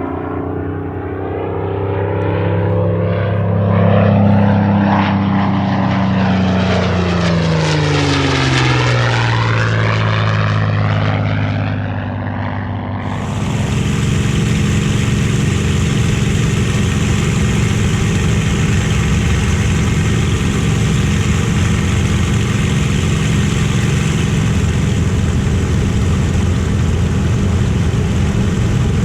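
Merlin V12 piston fighter flying past, its engine pitch dropping as it goes by. About 13 seconds in, the sound switches abruptly to a steady, louder, harsher engine drone.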